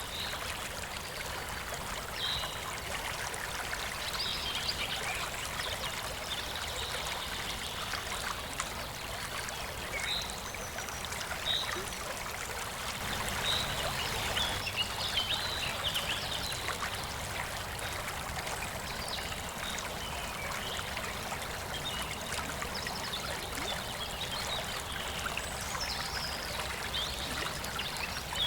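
Steady rush and trickle of a forest waterfall, with small birds chirping on and off over it.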